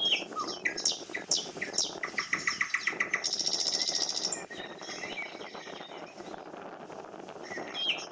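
Birds calling: a series of quick, high, down-slurred chirps, a fast trill about two seconds in, then a buzzy call, with more chirps near the end.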